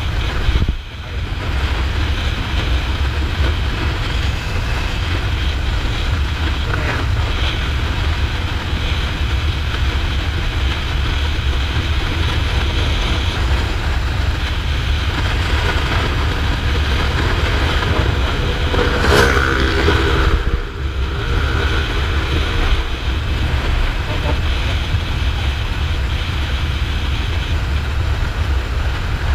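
Kawasaki Ninja 400's parallel-twin engine running under way, with heavy wind rush on the helmet microphone. The level drops briefly twice, about a second in and about two-thirds through, and a louder pitched sound lasts about two seconds just before the second drop.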